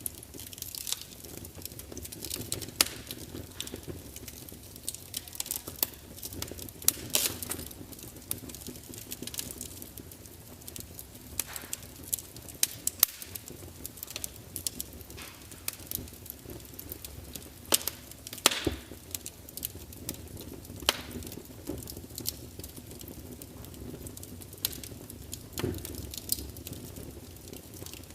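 Wood fire burning in a large fireplace, with irregular crackles and sharp pops over a steady low rumble of the flames.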